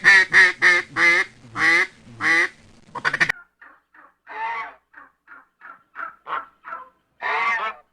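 A duck quacking loudly in a rapid run of about three quacks a second, cut off suddenly about three seconds in. Softer, shorter bird calls from a different clip follow, with two longer calls among them.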